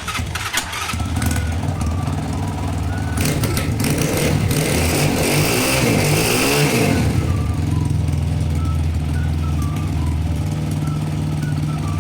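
Small single-cylinder Honda motorcycle engine running steadily. It is revved up and back down in the middle with a rush of exhaust noise, then settles back to its steady running.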